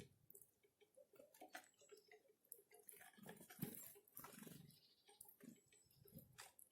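Small forest birds at a winter feeding spot, very faint: scattered light taps and clicks with a few short, soft high chirps.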